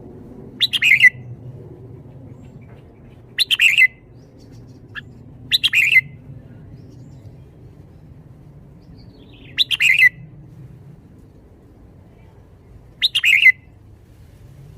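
Red-whiskered bulbul singing five short, bright phrases of about half a second each, spaced a few seconds apart. This is the song style Thai keepers call 'bottle-shaking' (เขย่าขวด).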